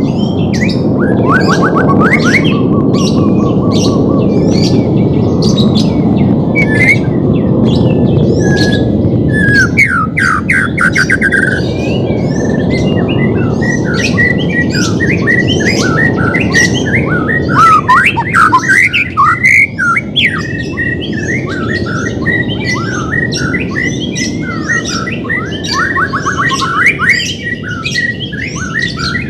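White-rumped shama (murai batu) song and calls: a fast run of sharp whistled notes, trills and harsh squawks. A steady low rushing noise runs underneath and eases about ten seconds in.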